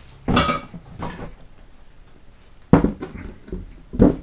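Four short knocks and clatters of objects being handled and set down on a workbench.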